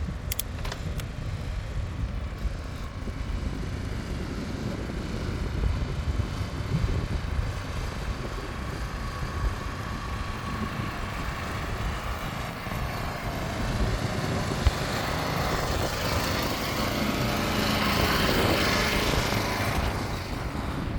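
Wind buffeting the microphone of a camera carried on a moving bicycle, a steady low rumble. A few sharp clicks come about half a second in. A passing motor vehicle swells louder in the second half and fades again near the end.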